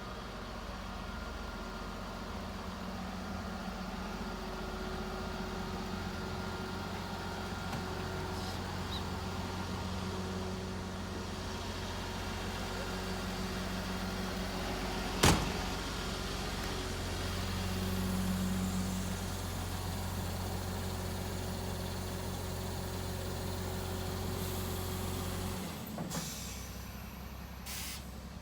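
Garbage truck's diesel engine running steadily, its note swelling briefly about two-thirds of the way through, with one sharp knock about halfway. The engine sound drops away near the end.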